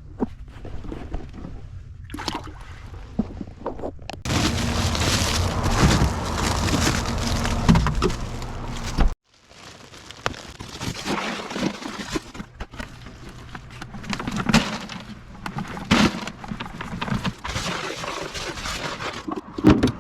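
Water sloshing and splashing, with scattered sharp knocks. The sound is loudest for a few seconds in the middle, then cuts off abruptly about nine seconds in before resuming.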